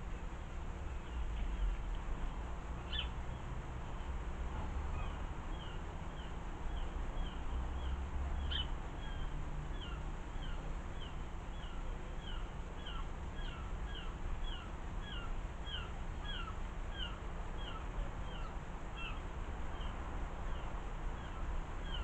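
A bird calling one short, hooked note over and over, about two a second, clearer after the first few seconds. Under it is a steady low background rumble.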